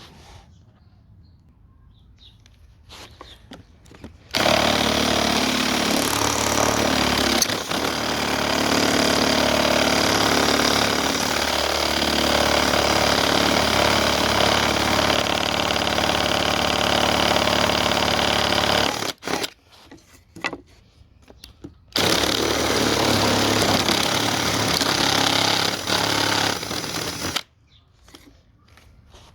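Electric drill with a spade bit boring an entrance hole through thin scrap wood. It runs steadily for about fifteen seconds, stops briefly, then runs again for about five seconds until the hole is through.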